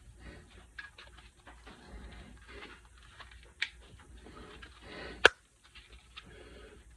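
Irregular rustling and scraping of hand work on small parts, with a sharp click about three and a half seconds in and a louder, sharper click a little after five seconds.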